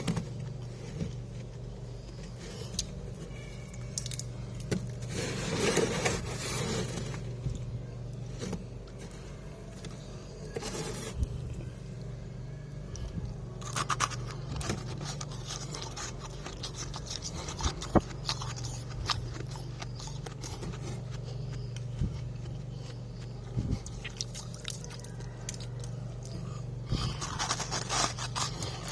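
Frost being scraped from the inside of a freezer and crunched and chewed, in scattered scratchy scrapes and sharp crunches over a steady low hum.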